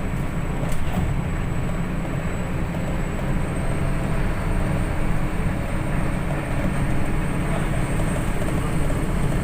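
Steady low rumble of jet airliner machinery running, with a thin, steady high whine over it.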